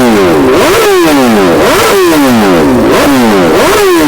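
BMW S1000RR's inline-four engine revved in quick repeated throttle blips through an Akrapovic full-system exhaust, each blip jumping up in pitch and falling back, about two a second.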